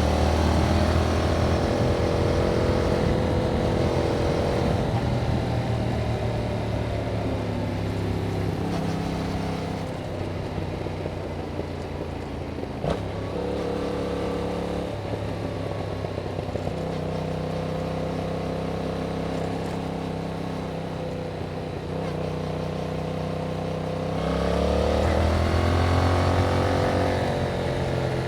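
Yamaha MT-07's 689 cc parallel-twin engine running through its stock exhaust under way, its note rising and falling with the throttle and stepping between gears. The revs climb strongly near the end.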